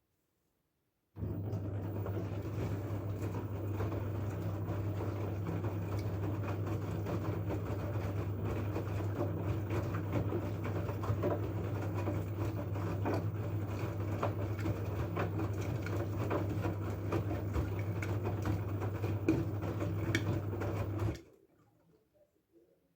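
LG F12A8ND front-loading washing machine running: a steady low hum with a fine crackle over it. It starts abruptly about a second in and cuts off sharply near the end.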